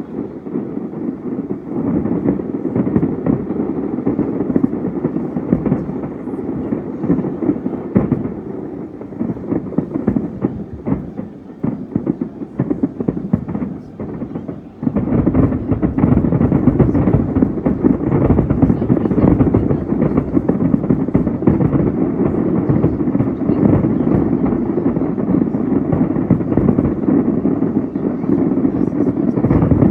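Aerial fireworks bursting in rapid succession, a dense run of bangs and crackles. About halfway through the barrage suddenly gets louder and thicker.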